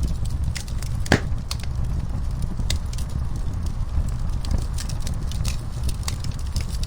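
Wood fire crackling in a fireplace: scattered sharp pops and clicks over a steady low rumble of the flames, with one louder pop about a second in.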